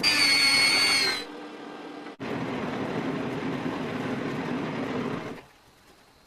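An electric power tool running: a loud high whine for about a second, then after a sudden cut a lower, steady running sound that stops about five seconds in.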